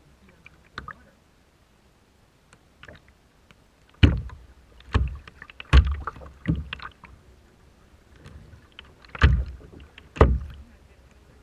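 Rough sea water splashing and slapping against a small paddled boat in irregular bursts, each with a deep thump. The loudest come in a cluster of four a little before halfway, then two more near the end.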